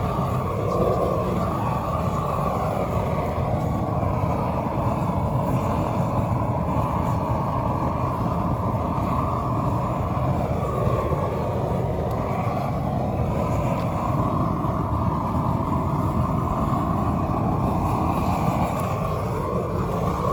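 Flame thrower burning steadily with a continuous rushing roar, unbroken throughout.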